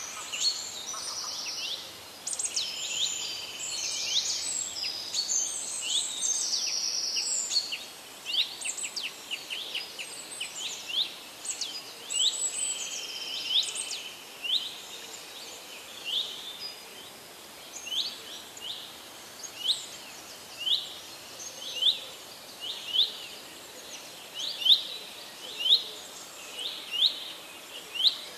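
Birds calling: a busy chorus of overlapping chirps for the first several seconds, then one bird repeating a short rising call about once a second.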